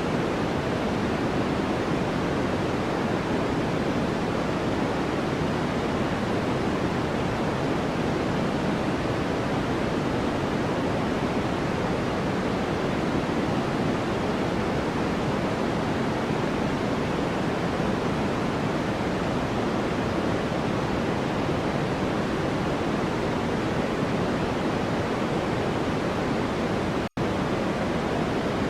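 Steady white noise, played as the masking track of a subliminal audio: an even rushing hiss with no change, except a momentary cut to silence about a second and a half before the end.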